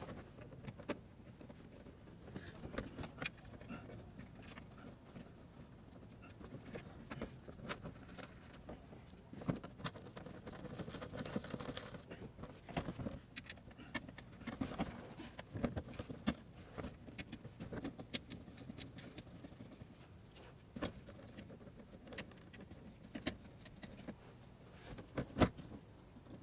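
Scattered light clicks, taps and knocks of tools and parts being handled, with one louder knock near the end.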